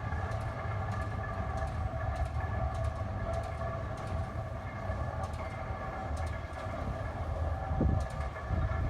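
Swing bridge's drive machinery running as the span swings closed: a steady mechanical whine over a constant low rumble, with a heavier low thud near the end.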